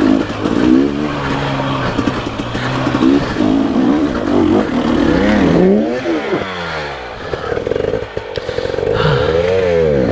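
Dirt bike engines revving up and down, the pitch rising and falling again and again.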